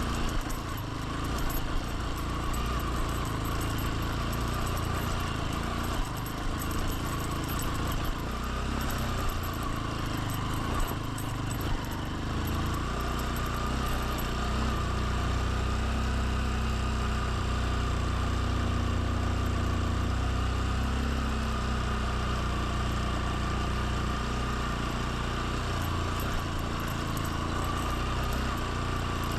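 Motorbike engine running steadily while riding, heard from on the bike.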